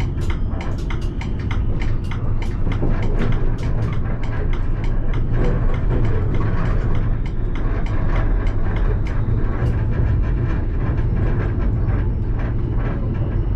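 Alstom Citadis tram running along its rails with a steady low rumble and a rapid run of sharp clicks and rattles, which thin out in the last few seconds.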